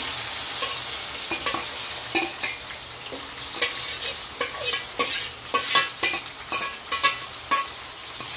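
Marinated chicken sizzling as it goes into hot oil and fried onions in a steel pot. A steel spoon scrapes and clinks against a steel bowl, pushing the marinade out, with repeated sharp clinks from about a second in.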